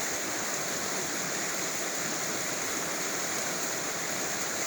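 Creek water flowing with a steady, unbroken rush.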